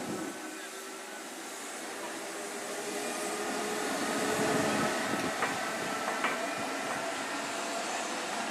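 A Class 90 electric locomotive at the rear of its train pushes away from the station, a steady electric whine of several tones over running noise. Two short sharp clicks come about five and six seconds in.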